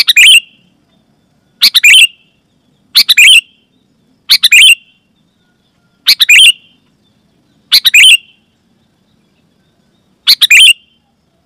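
Sooty-headed bulbul (kutilang) calling: seven short, loud, chirpy phrases about a second and a half apart, each a quick two-part burst, with a longer pause before the last.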